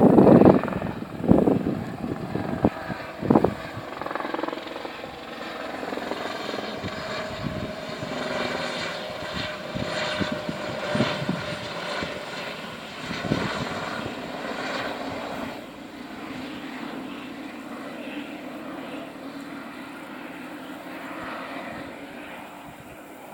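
Helicopter flying past, its rotor and engine heard as a steady sound that is strongest a little past the middle and then slowly fades away. A few loud thumps come in the first few seconds.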